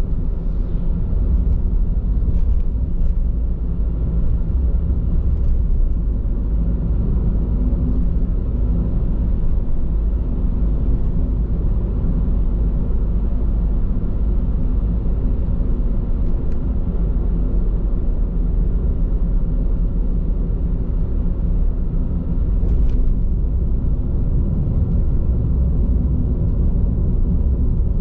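Steady low road and tyre rumble heard inside a moving car's cabin, on Bridgestone Regno tyres. A few faint clicks come early on and again about 23 seconds in.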